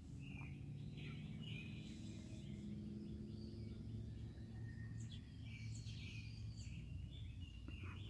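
Faint outdoor ambience: small birds chirping here and there over a low steady hum.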